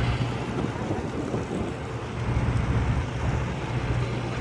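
Charter fishing boat's engine running steadily, a low drone under the rush of wind and water.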